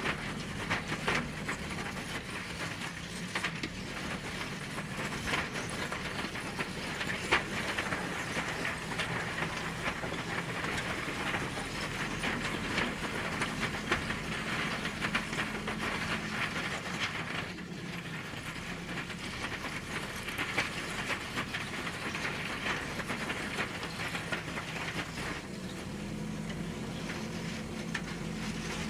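JCB 3DX backhoe loader's diesel engine running steadily, with a dense clattering rattle and hiss of the working machine over it. Near the end the clatter thins out and the engine's hum comes forward.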